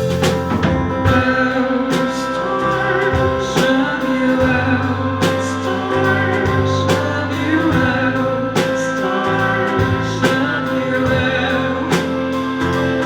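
A live band playing an instrumental passage: guitar and bass chords with drum hits landing at a steady, slow pulse.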